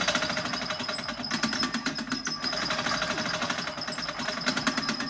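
Fast, even mechanical rattle of about ten clicks a second, running steadily throughout.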